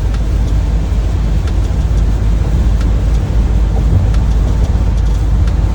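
Steady low rumble of engine and road noise inside the cab of a moving U-Haul truck, with a few faint ticks.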